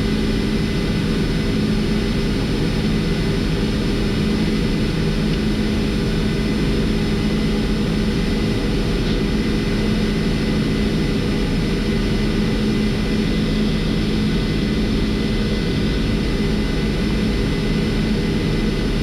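Steady flight-deck noise of a Boeing 747-400 in the climb after takeoff: an even rush of engine and airflow noise with a constant electrical hum running under it.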